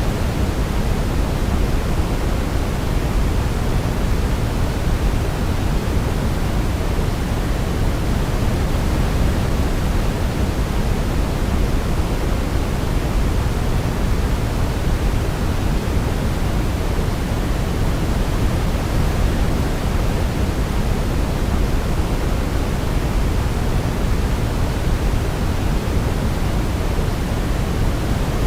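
Steady pink noise from a sleep-noise track: an even, unchanging hiss, heaviest in the low end and thinning toward the treble. No melody stands out above it.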